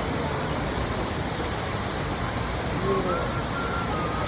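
A 15-metre indoor waterfall pouring steadily, a continuous even rush of falling water. Faint voices of people around it come through about three seconds in.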